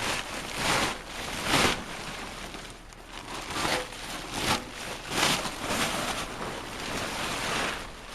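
Plastic tarp rustling and crinkling in a series of irregular swishes as it is pulled off a tractor.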